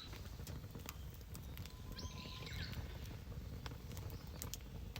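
Wood campfire crackling, with irregular sharp pops and a low steady rush. A bird chirps briefly about two seconds in.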